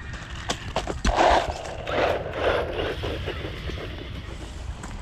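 Brushless RC truck running over grass: irregular knocks and clatter from the bouncing wheels and chassis, with louder rushing surges about a second in and again about two seconds in, over a low rumble of wind on the microphone.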